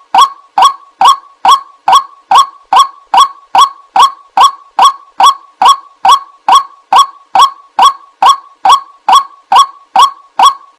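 White-breasted waterhen lure call: a short, honking note repeated at a very even pace, about two and a half times a second.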